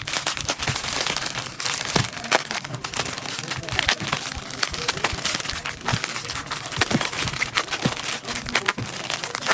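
Plastic packaging crinkling and rustling as it is handled, with many small clicks and knocks throughout.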